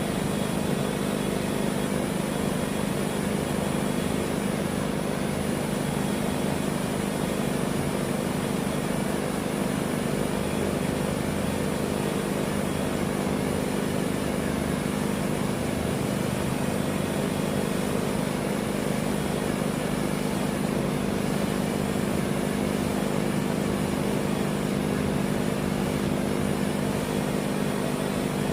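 Electric drill running steadily under load, boring a hole through the steel rear trunnion, its motor holding one even pitch throughout.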